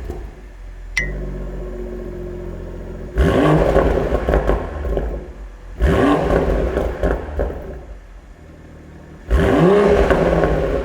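Toyota A90 Supra's turbocharged straight-six revved three times through a full-titanium Remark aftermarket exhaust. Each rev climbs sharply and falls back, with the engine idling in between.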